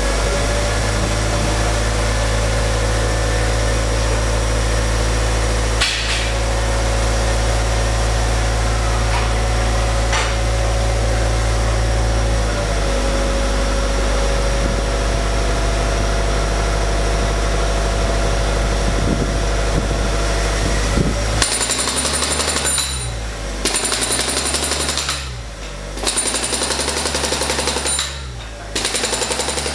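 A steady engine-like machine drone, then about two-thirds of the way through a pneumatic chipping hammer starts firing in rapid, even blows as it breaks out concrete, pausing briefly twice.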